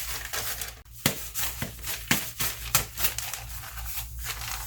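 Packaging paper being handled and folded into journal pages: a run of crisp rustles and creases, about three a second, with a brief pause about a second in.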